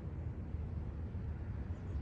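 Steady low background rumble, with no distinct knocks or clicks.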